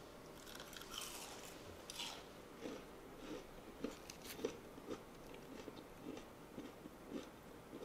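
Close-up chewing of crisp breaded beef milanesa: a couple of sharp crunches of the crust about one and two seconds in, then steady chewing at about two chews a second.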